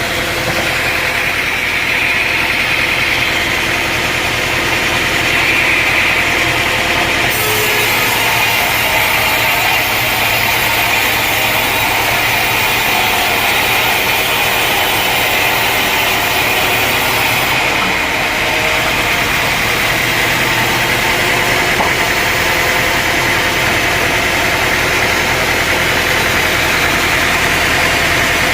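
Engine-driven sawmill running steadily, with its blade cutting through a log. A bright hissing cutting sound comes in about seven seconds in and eases off around seventeen seconds.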